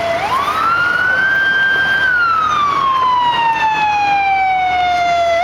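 Fire engine siren wailing: its pitch climbs quickly near the start, holds high for about a second, then slides slowly down, beginning to climb again at the very end.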